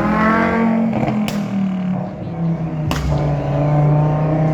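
Car engine held at high revs after revving up, its note dipping slightly about three seconds in, with two sharp clicks.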